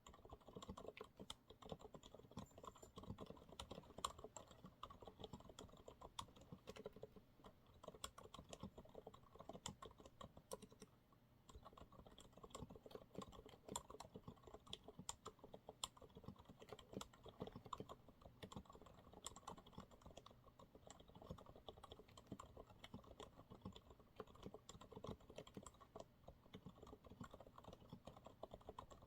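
Quiet, continuous fast typing on a Monsgeek MG108W full-size keyboard fitted with TTC silent brown switches: a dense run of soft keystrokes, several a second.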